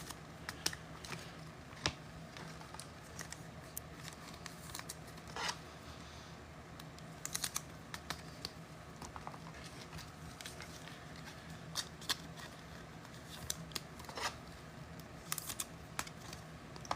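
Faint, irregular clicks and crinkles of trading cards and a foil card-pack wrapper being handled and opened.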